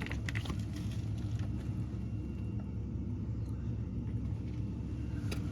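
Steady low mechanical rumble, with a few light clicks in the first second.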